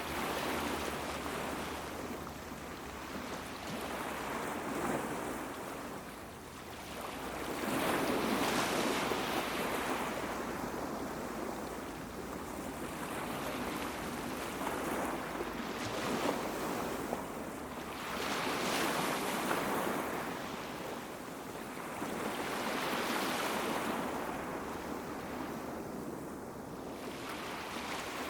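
Small sea waves washing onto a beach, the surf swelling and ebbing again every few seconds.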